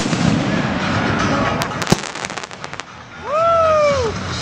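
Festive fireworks display: a bang at the start and another about two seconds in, then a quick run of crackling, over a steady background of crowd noise. Near the end a loud tone rises and then falls for about a second.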